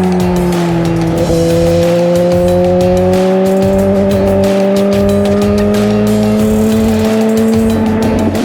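Suzuki GSX-R1000's inline-four engine and exhaust under way at steady high revs. It gives a strong, even note that steps up about a second in, then climbs slowly in pitch as the bike accelerates, and shifts again near the end.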